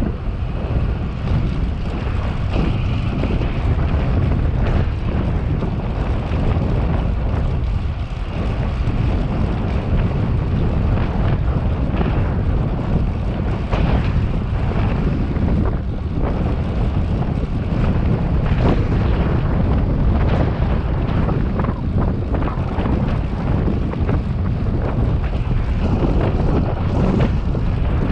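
Wind buffeting the microphone of a camera riding along on a moving bicycle: a steady, loud low rumble with small rises and dips.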